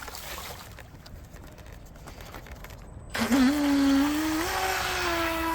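Eachine EBT04 RC boat's brushless motor on a 2S battery: about three seconds in a loud whine starts as the throttle opens, steps up in pitch and then holds steady as the boat runs.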